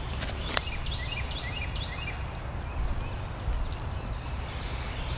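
Birds calling: a string of short chirps in the first two seconds, then a few scattered ones, over a steady low rumble.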